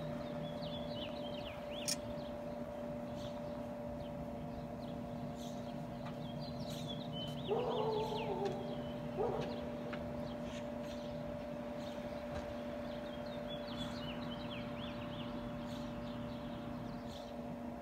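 Small songbirds chirping and twittering in quick bursts over a steady mechanical hum. About halfway through comes a louder, lower drawn-out call, then a short one.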